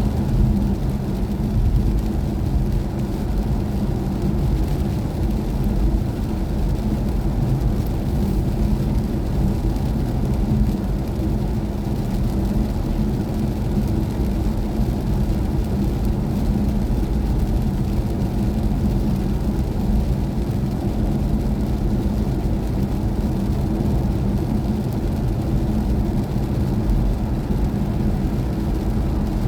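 Steady road and tyre rumble inside the cabin of a BMW i4 M50 electric car on the move, with a steady low hum and no engine note.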